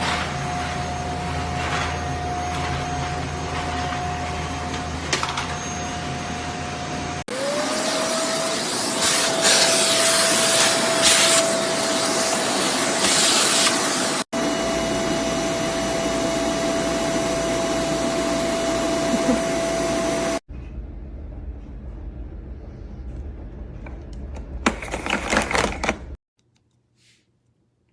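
Bissell Zing bagless canister vacuum cleaner running, a steady motor whine over rushing airflow. Its sound jumps abruptly several times, then there is a brief louder rush before it cuts off a couple of seconds before the end.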